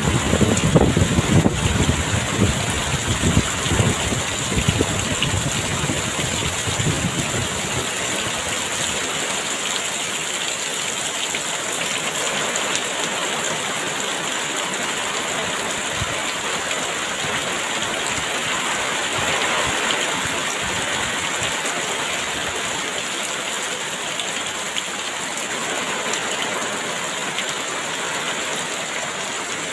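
Heavy rain pouring steadily. Gusts of wind add a low rumble for the first several seconds, then die down and leave the rain alone.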